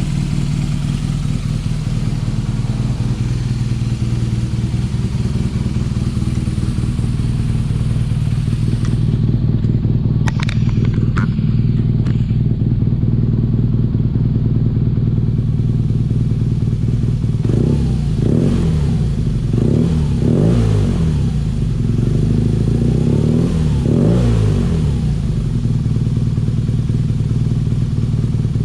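BMW R nineT's air/oil-cooled boxer twin running at idle to warm the oil, with a few sharp clicks near the middle and the engine speed rising and falling several times in the latter half.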